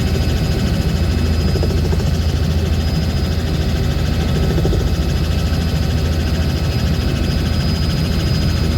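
Steady engine and propeller drone of an aircraft in flight, heard from inside the cabin.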